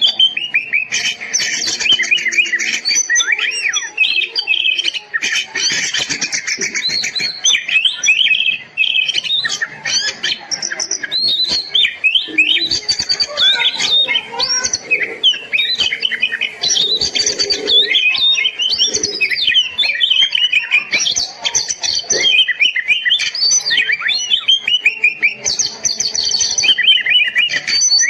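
Kacer (oriental magpie-robin) singing continuously in a fast, varied stream of high whistled and chattering phrases, the vigorous 'gacor' song that keepers play as a tutor recording.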